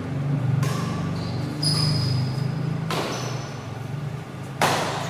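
Badminton rally: rackets striking a shuttlecock four times, roughly a second apart, with short high squeaks of shoes on the court floor between the hits and a steady low hum of the hall behind.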